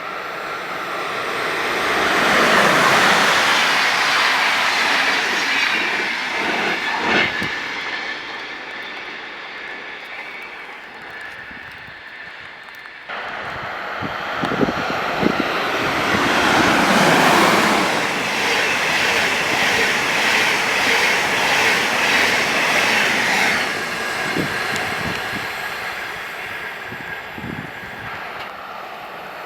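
Two trains passing through a station. Each pass is a swell of rolling wheel and rail noise that builds and fades, with a few wheel knocks over rail joints on the first. The first pass is cut off abruptly, and the second builds, holds for several seconds, then fades.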